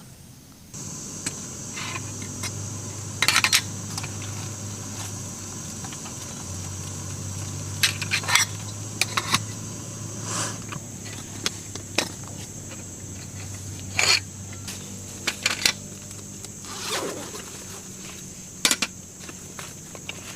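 Scattered clicks, knocks and short scrapes of objects being handled, over a steady high-pitched hiss that starts suddenly about a second in.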